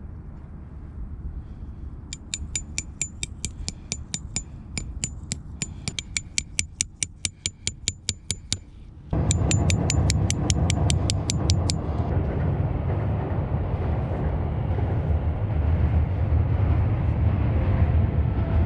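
A fast run of light metallic clinks, about five a second, each with a short high ring. About nine seconds in, steady rumbling wind noise on the microphone comes in suddenly and carries on to the end.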